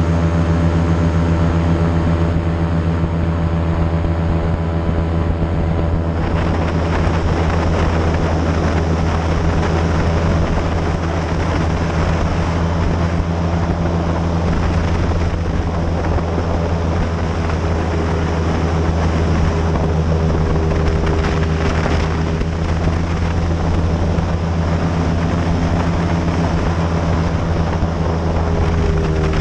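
Airboat's engine and large rear propeller running steadily under way, a deep constant drone. About six seconds in a rougher rushing hiss joins it and stays.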